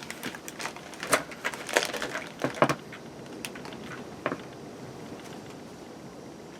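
A quick run of small clicks and knocks from handling objects at close range, bunched in the first three seconds, with a couple of single knocks after.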